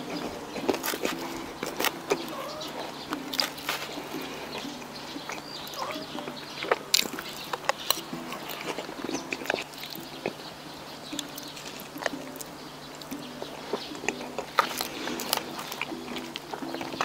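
Close-miked eating of pasta: irregular wet mouth clicks and smacks of chewing.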